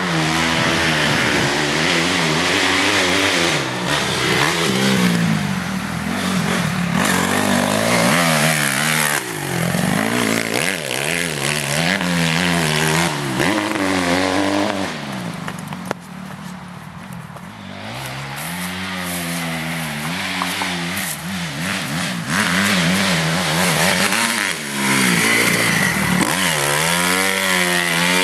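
Honda CRF250R motocross bike's four-stroke single-cylinder engine being ridden hard, revving up and dropping back again and again as the throttle is opened and closed through the track, with a longer throttle-off lull about halfway through.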